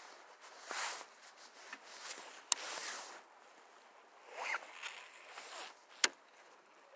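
Faint handling noise from casting and reeling a baitcasting rod with a chest-mounted camera: a few short swishes and rustles, with two sharp clicks, one about two and a half seconds in and one near the end.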